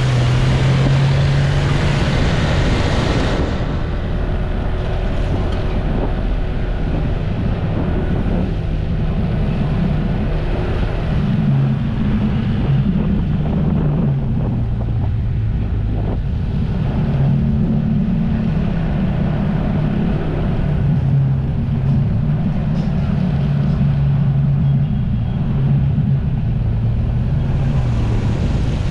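Jet ski engine running, its pitch rising and falling with the throttle, with wind buffeting the microphone.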